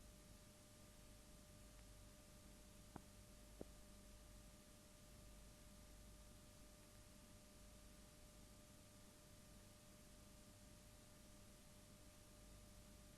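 Near silence: a faint steady hum and hiss, with two small clicks about three seconds in.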